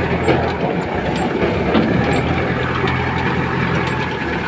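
Heavy vehicle's engine running steadily, with a constant low hum and a rattling clatter over it.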